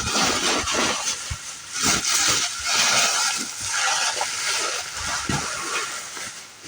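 A man breathing hard, loud panting close to the microphone, with a few light knocks.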